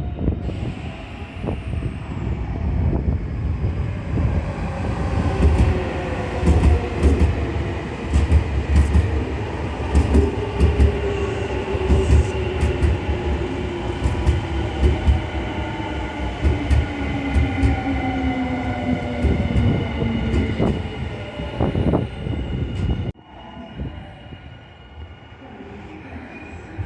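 Nankai Koya Line electric train running on the track, its motor whine falling slowly in pitch as it slows, with repeated sharp clacks from the wheels. The sound cuts off abruptly near the end, giving way to a quieter background.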